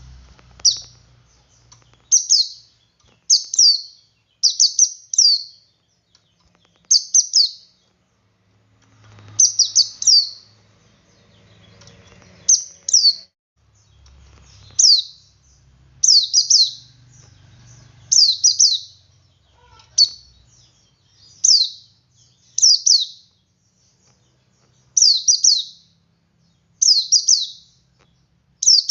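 Male white-eye (pleci) singing its 'ngalas' song: short, high, quick phrases of two to four falling sweeps, repeated every second or two.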